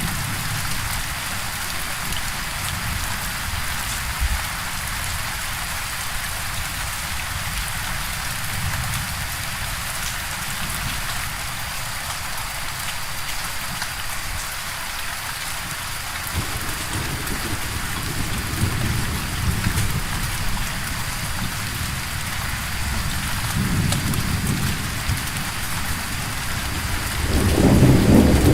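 Steady heavy rain with low rolling thunder underneath. The rumbling swells about halfway through and grows loudest near the end.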